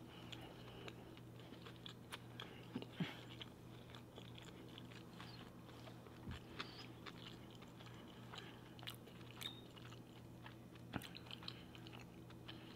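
A person chewing a mouthful of sushi roll: soft, wet mouth clicks and smacks at irregular intervals, with a low steady hum underneath.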